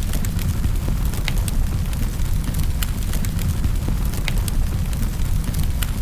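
Wood fire burning in a fireplace: irregular sharp crackles and pops, about one or two a second, over a steady low rumble of the flames.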